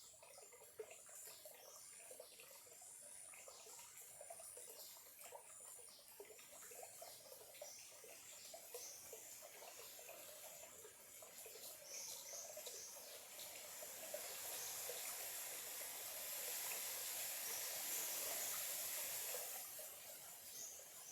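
Small clear-water stream trickling and burbling, growing louder and fuller about two-thirds of the way through before easing off again near the end.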